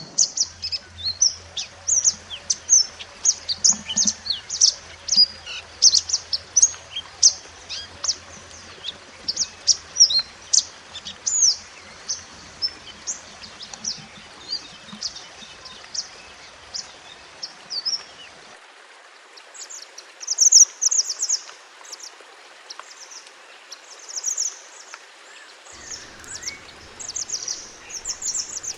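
A wild mountain mantenan songbird singing a fast, continuous stream of short, high chirps and twitters, briefly pausing about two-thirds of the way through before resuming in denser trills.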